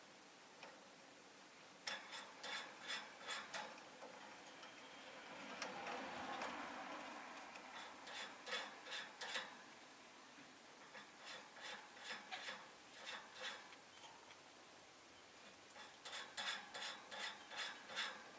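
Rosy-faced lovebird making short, sharp ticking notes, about three or four a second, in four bursts. A faint swell of background noise rises and fades around the middle.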